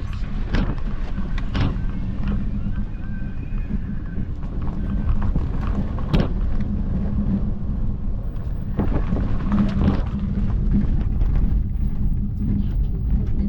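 Car driving along a road: a steady engine and tyre rumble with a constant low hum. A few sharp knocks break through, the loudest about six seconds in.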